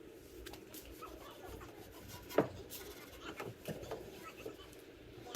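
Faint rubbing and handling sounds of polishing a chrome exhaust tip by hand, scattered small ticks and scrapes, with one sharp click about two and a half seconds in.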